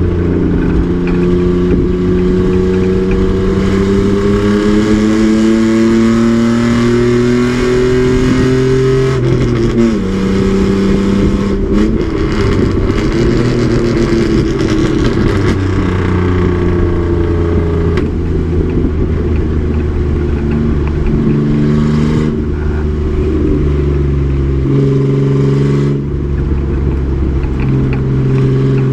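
Race truck's engine under load, its pitch climbing steadily for about nine seconds, then dropping sharply as the driver shifts or lifts. It keeps running with rising and falling revs and several step changes in pitch toward the end.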